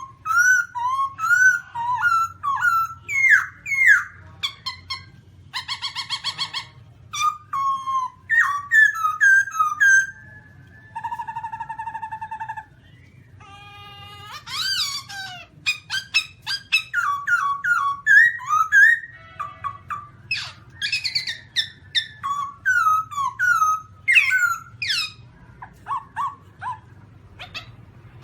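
Black-throated laughingthrush singing and calling: a long, varied run of whistled notes slurring up and down, broken by a harsh rasping burst about six seconds in and a steady, held nasal note near the twelve-second mark.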